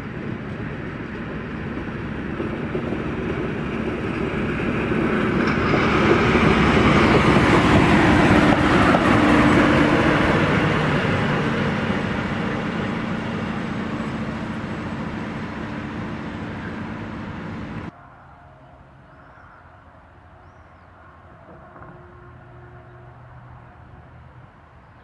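A train passing by, growing louder to a peak about seven to ten seconds in and then fading away. It cuts off abruptly about three quarters of the way through, leaving a faint outdoor background.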